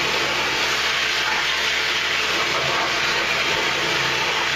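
Pressure washer running steadily: a continuous hiss of the water jet blasting clay out of a rock cavity, with a low motor drone underneath.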